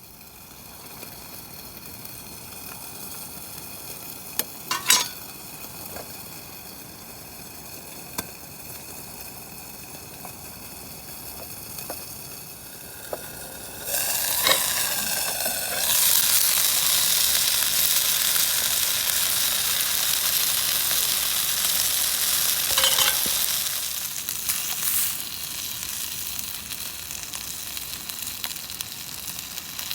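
Food frying and sizzling in a pan. The sizzle grows much louder about fourteen seconds in, and a few short knocks are heard.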